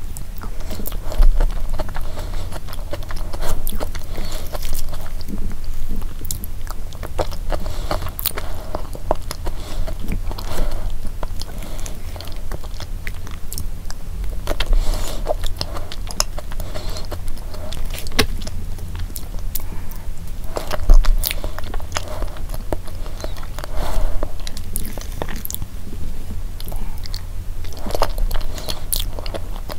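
Close-miked chewing and mouth sounds from mouthfuls of blueberry cheesecake dessert, with frequent short sharp clicks throughout.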